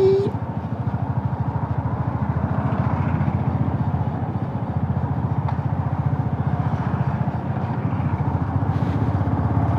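Motorcycle engine running steadily under way, with an even pulsing beat. A horn note cuts off right at the start.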